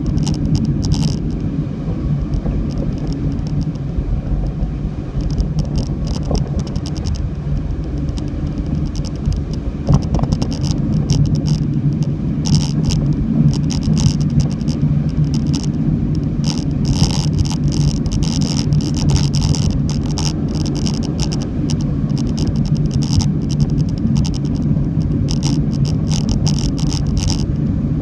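Car driving through typhoon rain: a steady low road-and-engine rumble with frequent short hisses, like water spraying and splashing.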